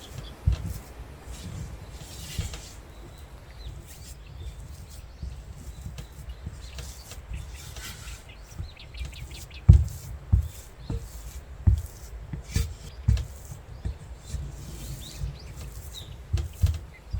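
Kitchen handling sounds during cookie-making: soft rubbing and scraping with irregular dull knocks, several louder thumps coming close together in the second half.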